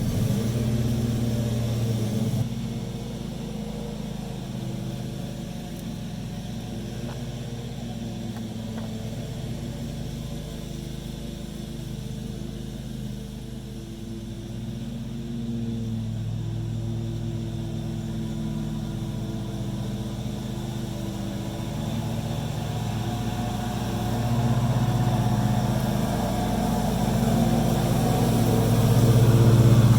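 An engine running steadily, its pitch drifting slightly, growing louder over the last several seconds.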